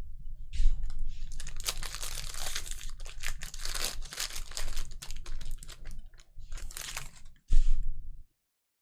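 A foil trading-card pack being torn open, its wrapper crinkling and crackling, followed by a single dull thump near the end.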